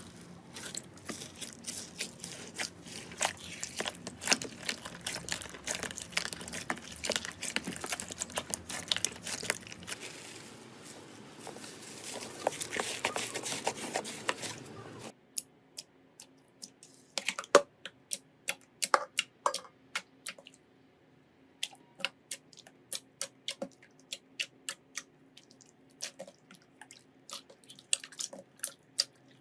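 Slime being handled and squished: a dense run of crackles and sticky pops for about the first half, then, after an abrupt change, separate sharp pops and clicks a few per second.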